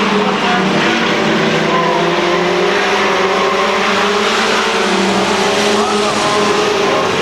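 Engines of a field of race trucks running at speed around a short oval track: a steady, loud engine drone with no sharp breaks.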